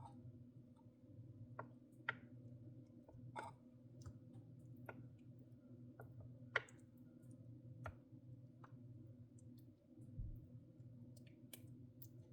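Scattered light clicks and taps of a spoon against the baking dish as the filling is spread over the lasagna noodles, irregular and one sharper tap about halfway through, over a faint steady hum.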